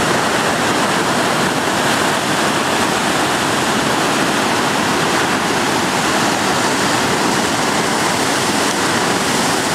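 Androscoggin River in spring flood just below a falls, swollen with snowmelt runoff, rushing fast in a loud, steady wash of water.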